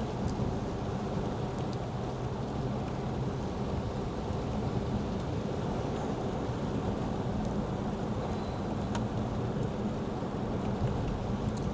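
Steady cabin noise of a Lexus ES 350 sedan driving on a rain-wet road: tyre hiss and rain with a low hum underneath. A single sharp click about nine seconds in.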